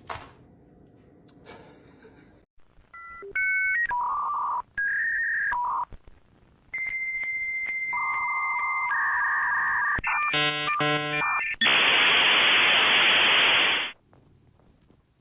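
Dial-up modem connecting: a sequence of electronic beeps and paired tones, then a long steady high tone, a quick warbling rattle and a loud hissing screech that cuts off about fourteen seconds in.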